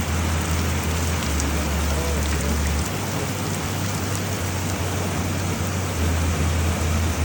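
Heavy rain pouring down steadily: a dense, even hiss of falling rain with a strong low drone underneath.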